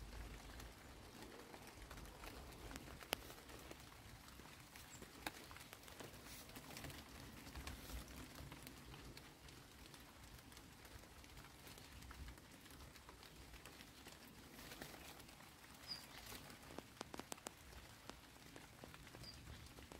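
Faint light rain: scattered drops pattering and ticking on wet garden leaves, a little denser about three-quarters of the way through.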